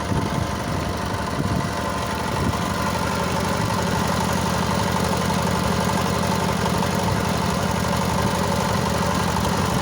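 Tractor engine running steadily at idle, with an even low hum.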